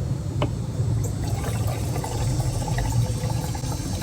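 Gasoline being poured steadily into a lawn mower's empty fuel tank.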